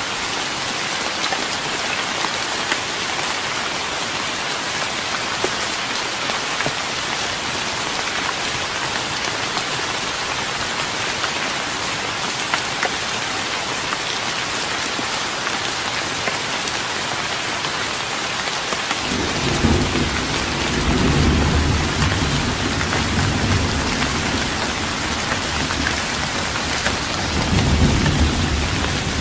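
Steady rain falling on a wooden deck, with a low thunder rumble coming in about two-thirds of the way through and swelling twice.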